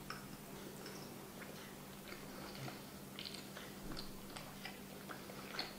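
Faint biting and chewing of a soft apple-filled pasticciotto, a shortcrust custard pastry, with soft wet mouth clicks about once a second.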